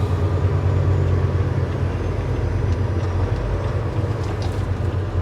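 Semi-truck's diesel engine running with a steady low drone, heard from inside the cab while driving.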